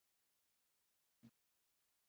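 Near silence: a gated pause between words, with one faint tiny click about a second in.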